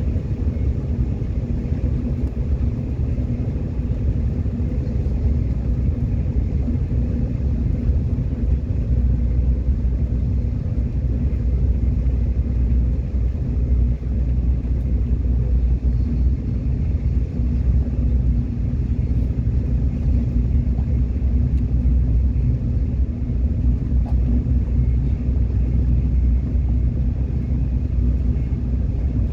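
Subway train running at speed: a steady low rumble of wheels on track and traction motors, with faint steady tones above it.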